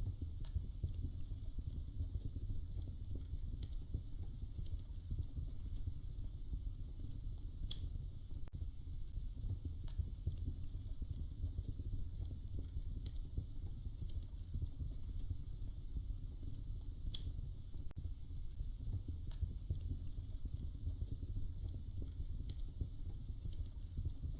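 Wood fire crackling in a fireplace: a steady low rumble with sharp pops scattered irregularly every second or two.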